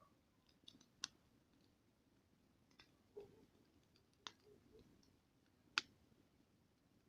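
Wood campfire crackling faintly: a few scattered sharp pops and snaps, the loudest about six seconds in.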